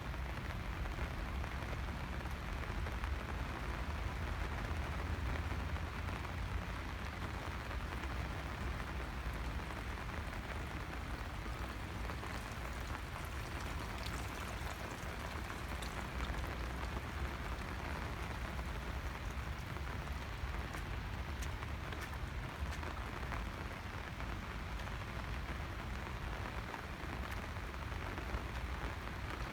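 Steady rain falling and pattering on surfaces as an even hiss, over a low steady rumble, with a few sharper drop ticks around the middle.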